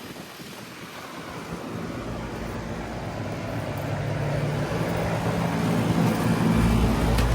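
Goodman GSZB4 2.5-ton heat pump outdoor unit running, its fan and scroll compressor making a steady whooshing hum that grows steadily louder. A deeper low hum comes in about two seconds in and strengthens near the end.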